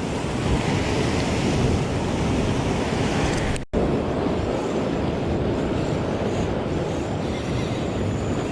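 Steady rush of sea surf and wind buffeting the microphone on a rocky shoreline, broken by a brief dropout about a third of the way in.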